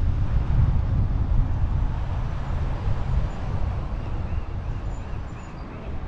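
Wind buffeting the camera microphone while riding, a heavy low rumble that slowly eases toward the end. A faint, rapidly repeated high chirping comes in over the second half.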